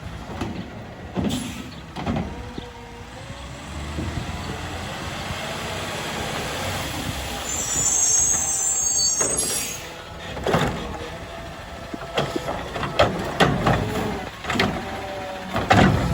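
Garbage truck at work on route: a sound that builds over several seconds, a high air-brake hiss about eight seconds in, then a run of sharp knocks and clanks.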